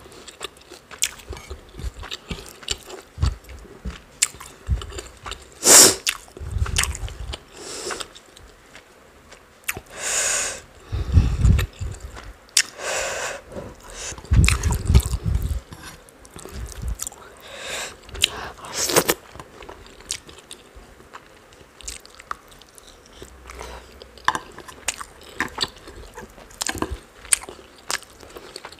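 Close-up eating sounds: wet chewing and mouth clicks while rice and chicken curry are eaten by hand, mixed with fingers working the rice on a plate. Sharp clicks come throughout, broken by a few louder, longer rustles.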